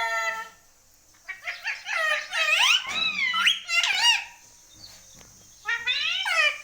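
Pet parrot calling and chattering in high, swooping tones, in three bouts with short pauses between.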